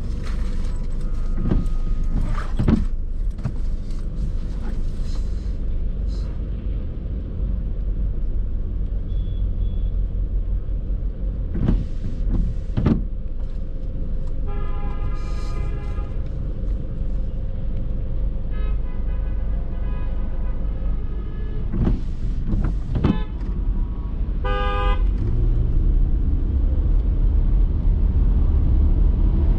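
Car driving in city traffic: steady low engine and road rumble with a few short knocks, while vehicle horns honk three times, the middle one held for about two seconds.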